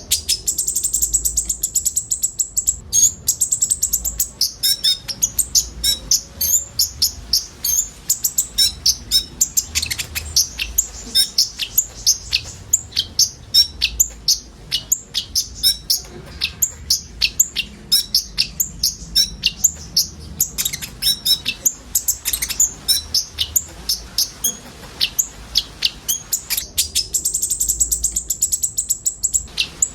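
Konin sunbird singing: a fast, continuous stream of high-pitched chirps and twitters. A high, rapid trill opens the song and comes back near the end.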